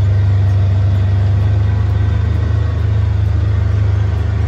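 Jeep Wrangler's engine running steadily at low speed, a loud low hum heard from inside the cab as the Jeep eases through flood water.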